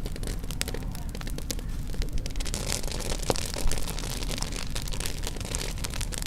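Campfire crackling and popping: many sharp irregular snaps from burning wood over a steady low rumble.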